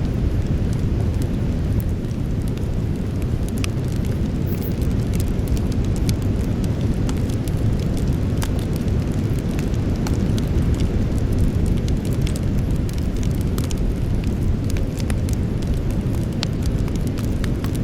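Wood campfire burning: a steady low rumble of the flames, with many sharp crackles and pops of burning wood scattered irregularly throughout.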